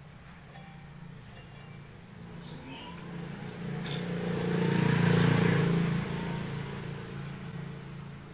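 A motor vehicle passing by: its sound swells over a few seconds, peaks about five seconds in, and fades away again over a steady low hum.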